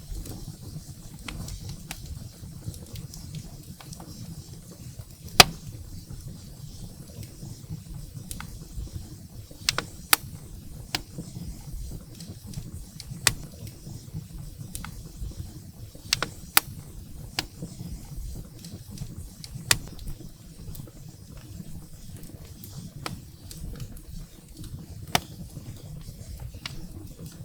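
Wood fire burning in a fireplace: irregular sharp pops and snaps of the firewood over a low, steady rumble of the flames. The loudest pop comes about five seconds in.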